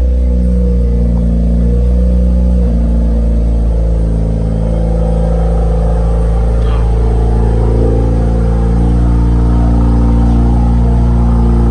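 Mazda RX-7 FD3S's 13B twin-rotor rotary engine idling steadily as it warms up just after a cold start, with a small step in engine pitch a few seconds in.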